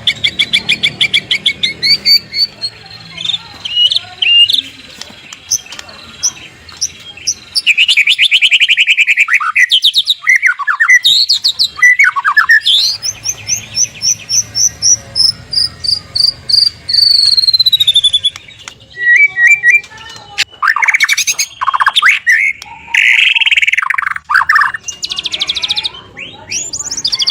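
White-rumped shama singing a loud, varied song of fast rattling trills and sharp whistled phrases, with a long run of evenly spaced notes sliding slowly down in pitch around the middle.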